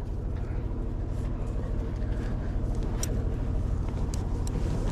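A sailing yacht's inboard engine idling steadily, with a fast even pulse, while a few light clicks sound over it.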